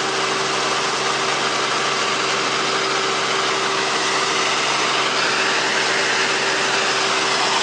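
Helicopter engine and rotor noise, a loud steady drone with a constant hum.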